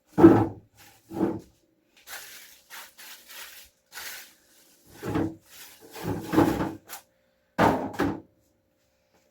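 Refrigerator drawers and food containers being slid, set down and knocked about while the fridge is loaded, with several heavier thumps and a stretch of rustling in the middle.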